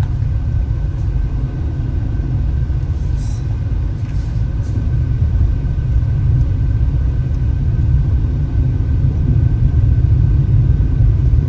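Car driving uphill at a steady pace, heard from inside the cabin: a continuous low rumble of engine and road noise that grows slightly louder toward the end.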